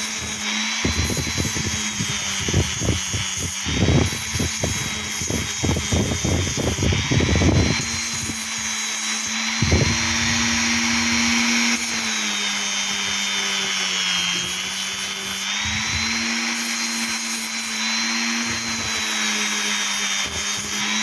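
Small electric power tool running steadily while grinding a piece of ironstone to take off deep scratches. Its pitch sags now and then as it is pressed into the stone, and there is rough scraping contact during the first several seconds.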